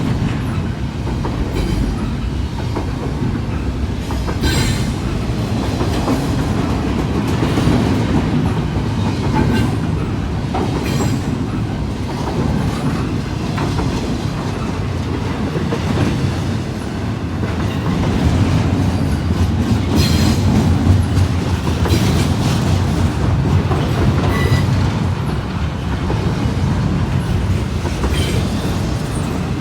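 Intermodal freight train rolling past, a steady low rumble with the wheels clacking over rail joints and an occasional brief squeal.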